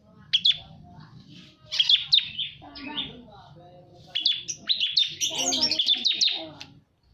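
A bar-winged prinia (ciblek, the white 'kristal' form) calling: bursts of sharp, rapid high chirps, in a short burst near the start, another about two seconds in, and a long dense run from about four seconds in, with some lower notes underneath.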